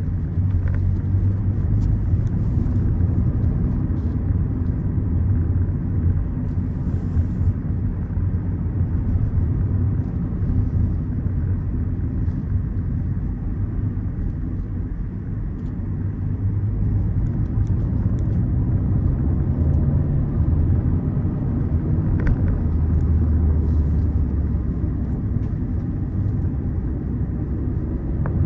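Peugeot 207 on the move, heard from inside the cabin: a steady low rumble of engine and road noise.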